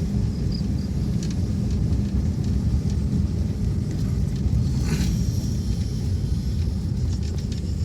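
Steady low rumble of a vehicle travelling along a road, with a short rattle about five seconds in.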